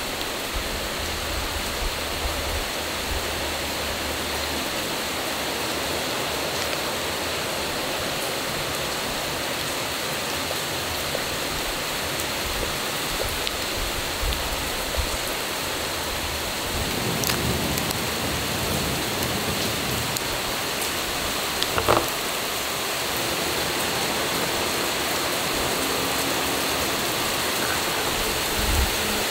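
Steady hiss of rain falling, with a brief sharp knock about three-quarters of the way through. Near the end comes a knife tapping on a plate as a fishball is cut in half.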